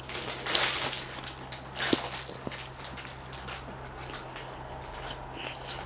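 Close-miked eating of sea snails and shellfish: two short noisy bursts, about half a second and two seconds in, with small clicks and soft mouth sounds between them.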